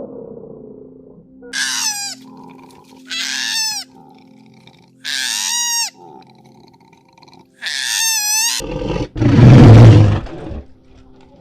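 Animal calls: four short, high-pitched calls, each falling in pitch, a couple of seconds apart, then a loud, low, rough sound near the end.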